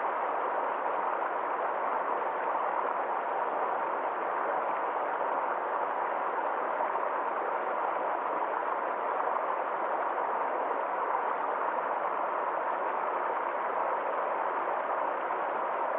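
Stream water flowing with a steady, unbroken rushing sound.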